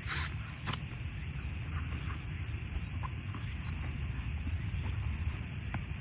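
Crickets singing in a steady, high, unbroken chorus over a constant low rumble, with a few sharp clicks near the start and again near the end.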